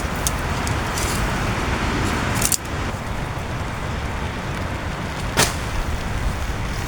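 Heavy rain pounding on a tent with strong wind: a steady hiss over a low rumble, with two sharp taps, one about two and a half seconds in and one near five and a half seconds.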